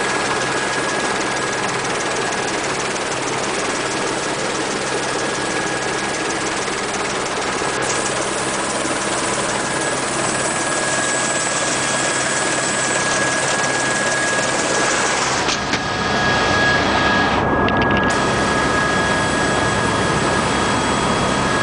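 Helicopter engine and rotor noise: a loud, steady drone with a thin whine over it, growing a little louder about three-quarters of the way through.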